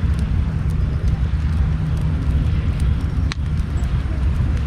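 Large wood campfire burning with a steady low rumble and scattered sharp crackles, one louder pop about three seconds in.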